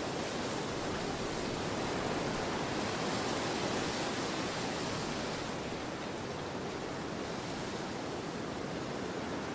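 Strong storm wind blowing in a steady rushing roar, easing slightly a little past halfway.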